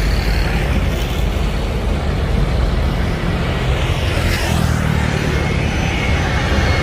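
Boeing 737-300 freighter on landing approach, its CFM56 jet engines making a loud, steady rumble with a thin high whine that shifts in pitch about halfway through.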